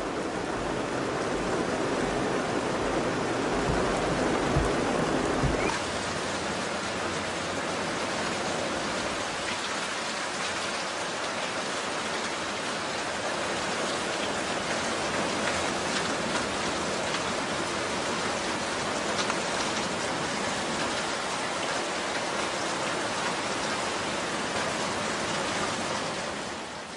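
Steady heavy rain with water running off; about six seconds in the sound shifts and its low rumble drops away.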